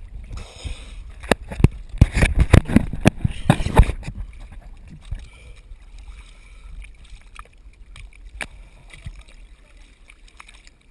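Surface water splashing and sloshing around a diver's camera, with a dense run of sharp knocks and splashes for about four seconds, then quieter lapping with scattered clicks.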